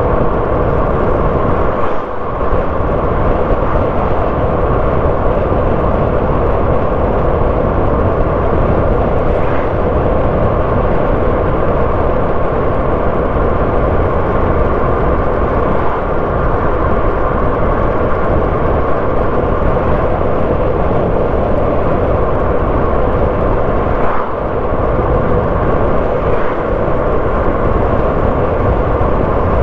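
A car driving steadily on the road: its engine and tyre noise are heard as a constant rumble and hum. The level drops briefly twice, about two seconds in and again about four-fifths of the way through.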